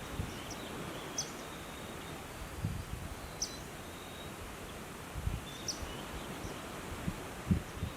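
Outdoor nature ambience: a steady background hiss with short, high bird chirps every second or two, and a few brief low thumps.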